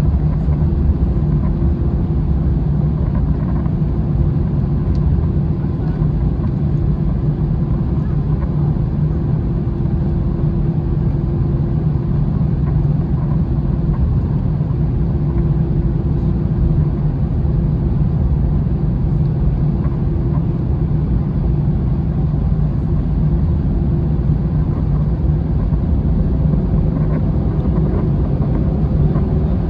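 Steady low rumble of an Airbus A321 heard from inside the passenger cabin: engine and airflow noise, with a faint steady hum over it.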